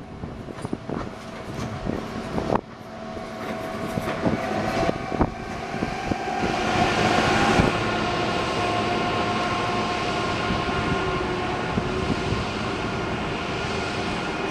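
A train passing on the tracks. The rumble builds over the first half and carries several steady high tones, then drops abruptly about halfway through and carries on steadily.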